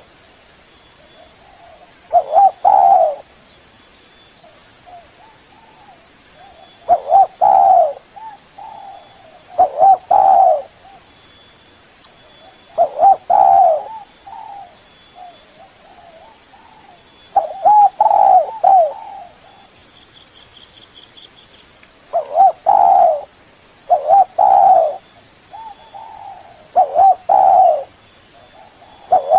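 Spotted dove cooing: loud phrases of a few deep notes repeated about every three to five seconds, with softer single coos between them.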